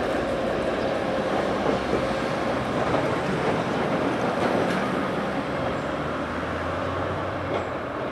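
Northern Class 769 bi-mode multiple unit moving away along the track, its diesel engines droning under the rumble of wheels on rail, the sound fading steadily as it recedes.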